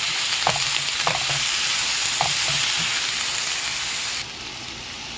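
Sliced watermelon rind and red onion sizzling in oil in a frying pan as they are stir-fried with chopsticks, with a few light clicks against the pan. The sizzle drops off abruptly about four seconds in.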